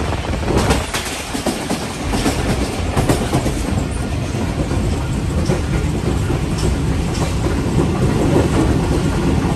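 Passenger train coach running at speed, heard through its open doorway: a steady rumble of wheels on rails with scattered clicks over the rail joints.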